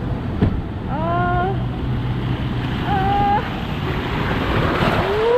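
Water rushing and wind buffeting the microphone during a ride down a water-park slide, with a rider's short rising cries three times: about a second in, about three seconds in, and at the end.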